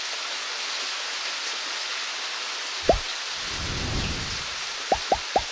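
Heavy rain falling steadily, with water pouring off the roof spouts. About three seconds in there is a sharp low thump followed by a low rumble, and near the end three quick thumps in a row.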